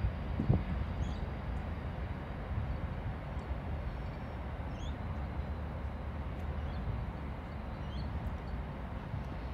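Distant freight train of container wagons rolling across a bridge: a steady low rumble, with a brief bump about half a second in. A few short high bird chirps sound over it.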